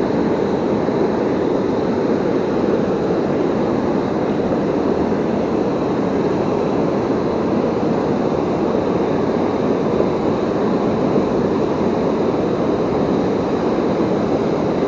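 Steady roar of rushing water from a river waterfall and its current.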